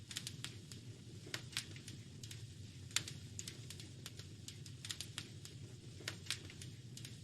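Wood fire crackling in a fireplace: irregular sharp pops and snaps over a steady low rumble, the loudest pop about three seconds in.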